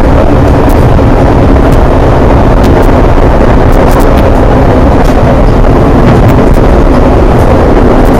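Loud, steady rumble of a passenger train running at speed, heard from inside the car, with faint scattered clicks.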